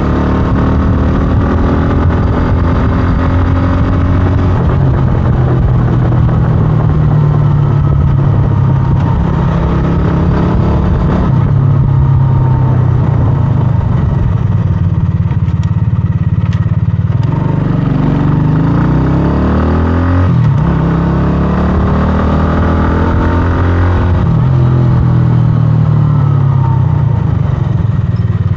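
125cc scrambler motorcycle engine running under way, its pitch rising and falling with throttle and gear changes. A little past halfway it drops to a low note, then climbs again as it accelerates.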